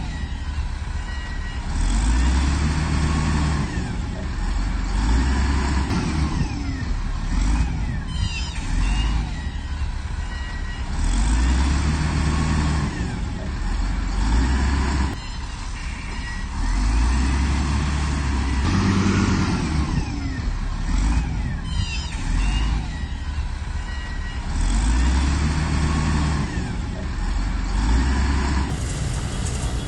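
Heavy diesel earthmoving machine working, its engine swelling under load every few seconds, with metallic squeals and clanks from the running gear.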